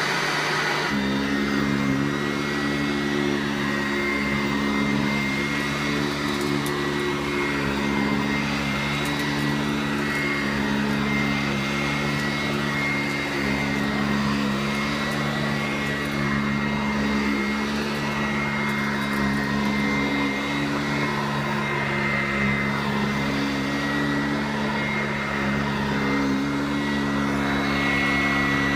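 Sanitaire upright vacuum cleaner running steadily over carpet: a constant motor hum with a high whine.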